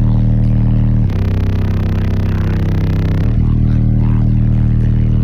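Car audio system with subwoofers playing music at very high volume, dominated by deep held bass notes that change about every two seconds.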